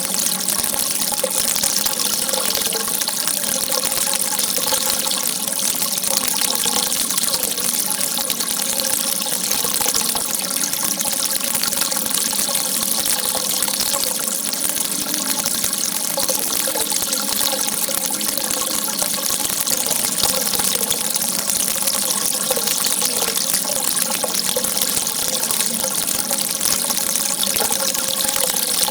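Water gushing in a steady, unbroken rush, a continuous jet of water.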